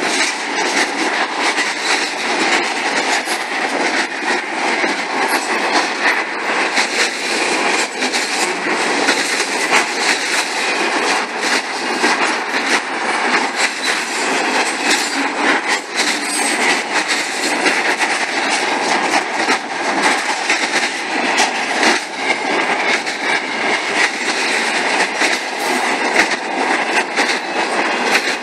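CSX double-stack container freight cars rolling past close by: a loud, steady rush of wheels on rail, with clicking and clatter as the wheels pass over the rail joints.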